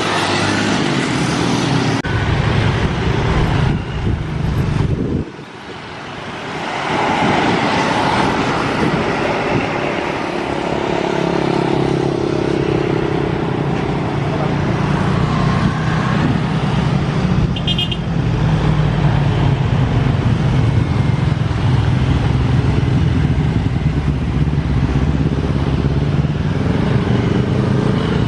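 Road traffic going past close by, cars and motorcycles, running continuously with a brief lull about five seconds in. A short, high-pitched beep sounds near the middle.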